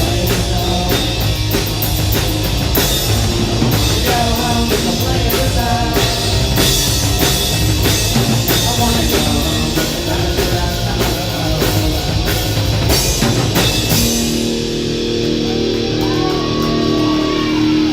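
Live rock band with electric guitar and drum kit playing loudly. About fourteen seconds in, the drums stop and a held guitar chord rings out with a gliding tone over it, as the band's final song ends.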